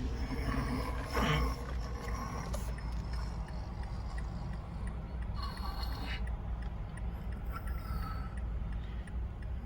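Car driving, heard from the cabin: a steady low rumble of road and engine noise, with a few brief, faint higher sounds over it.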